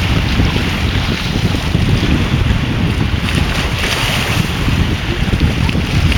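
Sea waves splashing and washing on the shore, with a hiss that swells about halfway through. Heavy wind buffeting on the microphone makes a loud, uneven rumble.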